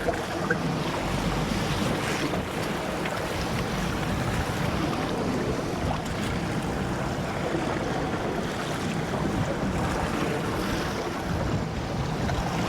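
Steady wind buffeting the microphone, with choppy sea water washing against a small fishing boat.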